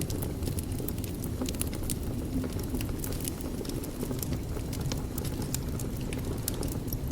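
Wood fire burning in a fireplace: many quick, irregular crackles and pops over a steady low rush of the flames.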